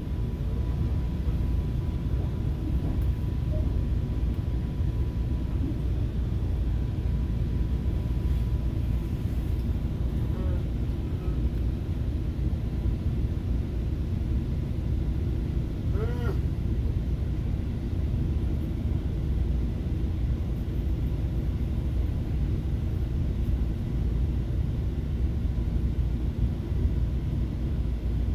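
FrontRunner diesel commuter train running along the track, heard from inside a passenger car as a steady low rumble. A faint steady tone runs through the first third, and a brief rising squeal comes about halfway through.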